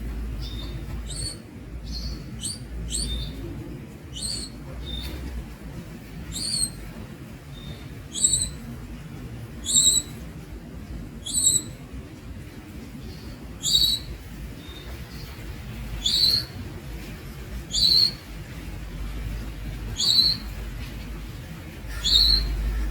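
Young Javan munia giving short, high-pitched chirps, soft and quick at first, then louder single calls about every two seconds. A steady low rumble runs underneath.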